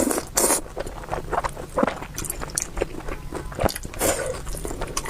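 Close-miked eating of spicy beef noodles: wet chewing and mouth sounds with many short clicks and squishes.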